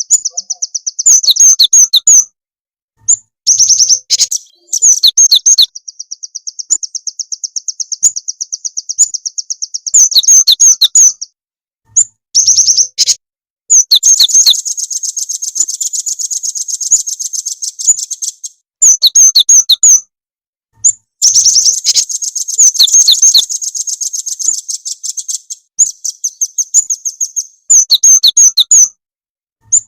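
Recorded songbird song used as a lure track for cinereous tits and velvet-fronted nuthatches. Rapid high trills run under loud, sharp chirps, in stretches that cut off abruptly into short silent gaps several times.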